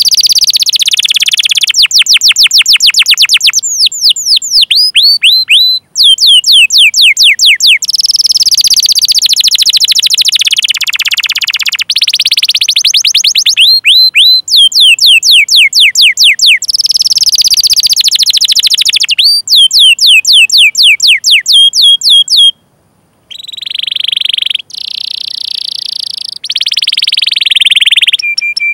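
Domestic canary singing a long, continuous song in phrases of about two seconds each, alternating between fast rolling trills and runs of rapid, downward-sliding chirps. The song breaks off briefly twice.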